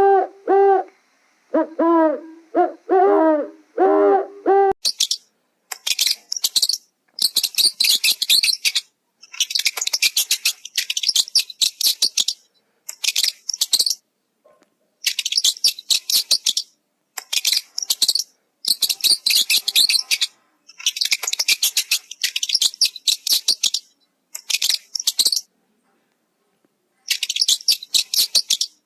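Birds calling: a series of low, pitched hooting calls for the first few seconds, then high, rapid chirping and trilling in repeated bursts with short pauses between.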